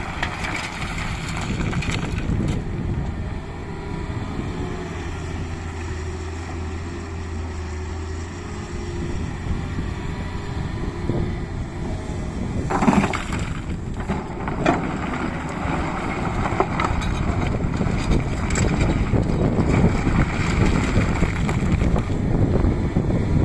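Tata Hitachi excavator's diesel engine running under working load, a steady mechanical drone that grows louder in the second half, with two sharp knocks a little past halfway as the machine works the mud.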